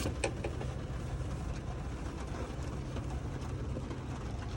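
A truck's engine idling steadily, heard from inside the cab as a low, even hum, with a couple of faint clicks right at the start.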